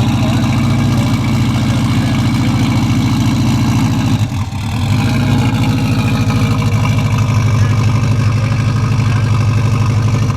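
Subaru EJ205 flat-four engine idling steadily while cold. It falters briefly about four seconds in, then settles back to its even idle.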